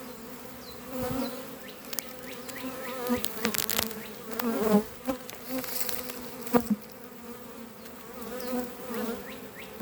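Swarm of honeybees buzzing around an open hive, a steady hum with single bees whining past close by, the colony stirred up as the hive is split. A few sharp knocks, the loudest about six and a half seconds in.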